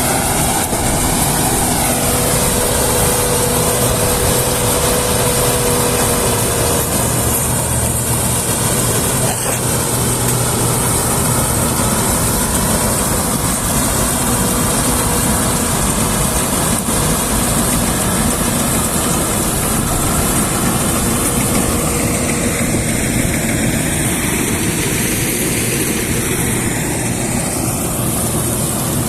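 A heavy farm machine's engine running steadily under load, with a faint steady whine over the noise.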